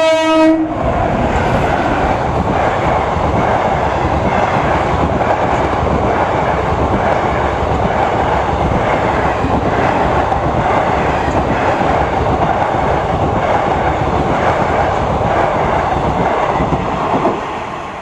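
Indian Railways express train of passenger coaches hauled by electric locomotives running past at speed: a loud, steady rumble with wheels clattering over the rail joints. The locomotive horn cuts off within the first second, and the sound falls away sharply near the end.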